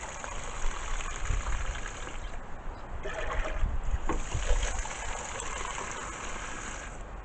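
Water being poured from a measuring cup into a pot, trickling and splashing unevenly, with a few light knocks of the cup.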